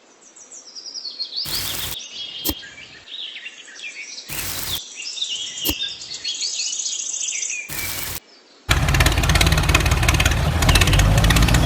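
Small birds chirping and tweeting in quick high calls, broken three times by short bursts of hiss. About nine seconds in, a loud dense sound with a low rumble takes over.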